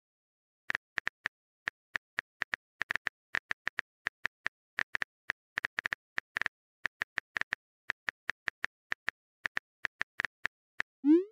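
Phone keyboard typing sound effect: short, sharp clicks tapping out irregularly, several a second with brief pauses, as a text message is typed.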